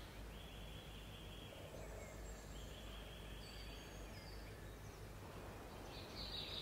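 Faint woodland ambience with two long, steady high-pitched calls, each lasting about a second and a half, and a few fainter, higher notes: small birds calling.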